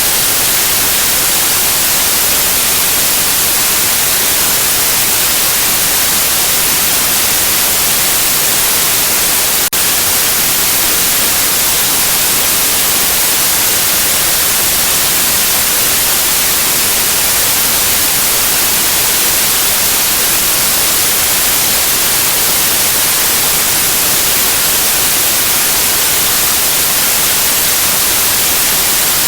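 Steady white noise: an even, loud hiss with no tone or rhythm, used to soothe a baby to sleep. A single brief click breaks it once, about ten seconds in.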